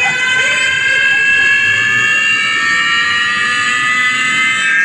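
Large outdoor sound system at sound check, playing a loud sustained electronic riser: a stack of high tones gliding slowly upward over a low rumble.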